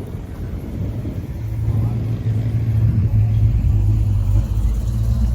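A car engine running with a low, steady rumble that grows louder over the first couple of seconds and then holds.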